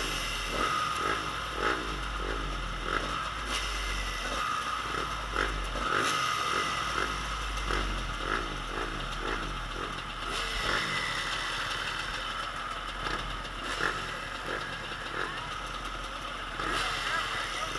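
Motocross bikes running on a dirt track, their engines revving again and again, with some clatter.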